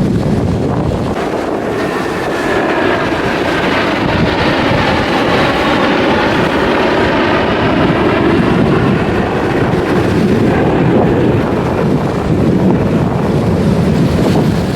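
Jet aircraft flying past, loud and steady throughout, with a faint whine that slowly falls in pitch through the middle.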